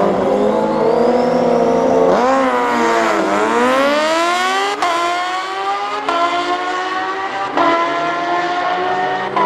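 Two superbikes, a supercharged Kawasaki Ninja H2 and a Suzuki Hayabusa, revving at the drag strip start line and then launching about two seconds in. Their engine pitch climbs hard, with quick upshifts about every second and a half.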